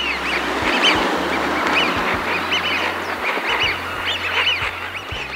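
A flock of Eurasian wigeon calling: many short whistled calls that rise and fall, overlapping one another throughout.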